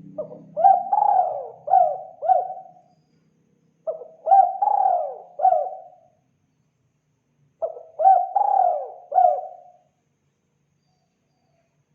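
Spotted dove (tekukur) cooing, the call used to lure the birds: three phrases of about four coos each, one every four seconds or so.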